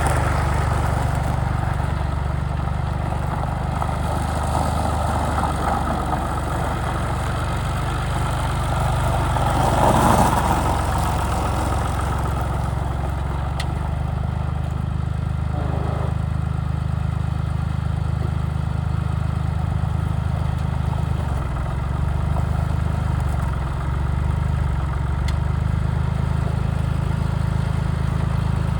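Massey Ferguson 230 tractor engine idling steadily, briefly swelling louder about ten seconds in.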